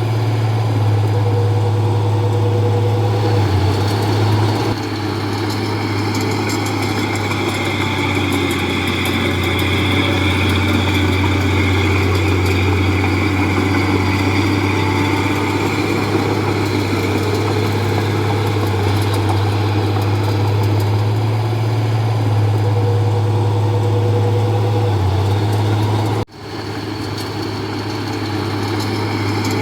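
Komatsu D31P bulldozer's diesel engine running steadily with a low drone. The sound drops out sharply for a moment about 26 seconds in, then comes back.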